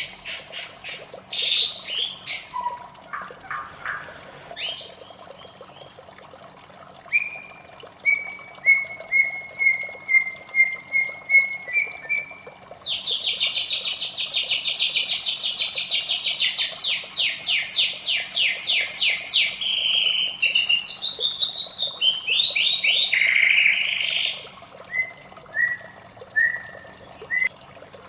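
White-rumped shama singing a varied song: clear whistled phrases, a row of short repeated notes, then a loud, fast trill lasting several seconds in the middle, followed by more whistled phrases.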